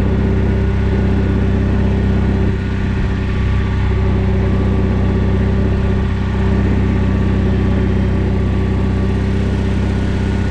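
John Deere 317 garden tractor's engine running steadily as the tractor drives along, a constant drone that eases slightly twice.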